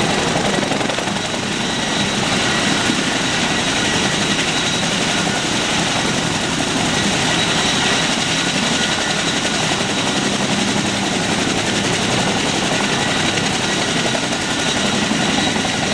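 Helicopter running steadily: a dense, unbroken engine and rotor noise with a faint steady whine over it.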